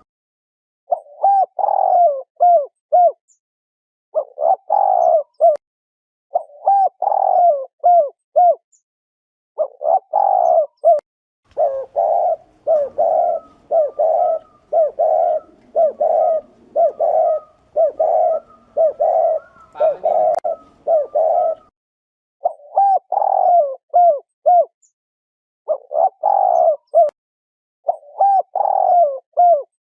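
Spotted dove cooing in repeated phrases of several short coos, each phrase separated by a short silence, with a longer unbroken run of rapid coos in the middle. This is the rolling 'thổ rền' coo, used as a lure call to provoke wild doves.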